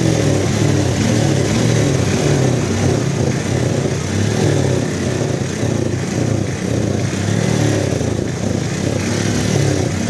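Motorcycle engine running at low speed, its pitch wavering slightly up and down, with a steady wash of noise behind it.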